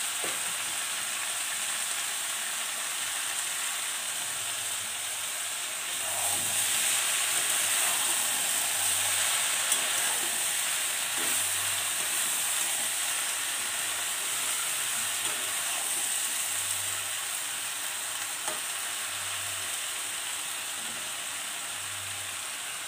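Potato and brinjal sticks and small mourala fish sizzling in mustard oil in an iron kadai on low heat. The frying grows louder about six seconds in as the mix is stirred, then gradually eases.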